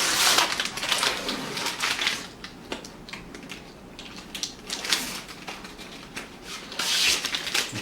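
Protective film being peeled off plastic panels, a rasping crackle in irregular strokes, with small clicks of the plastic pieces being handled; the peeling is strongest in the first two seconds and again near the end.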